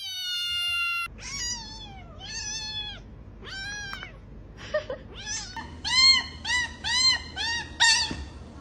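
Cat meowing over and over: a long held meow at the start, then a string of drawn-out meows that turn into quick short meows, about two or three a second, in the last few seconds.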